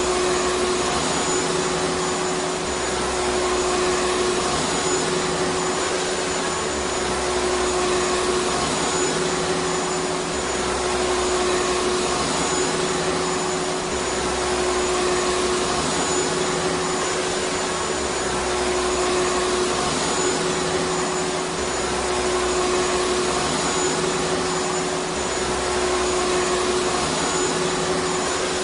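Vacuum cleaner running steadily: a dense, even rushing of air with a constant motor hum.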